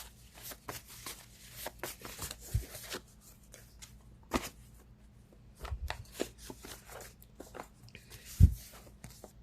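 A deck of tarot cards being shuffled by hand: a run of soft papery rustles and clicks, with a louder thump a little over eight seconds in.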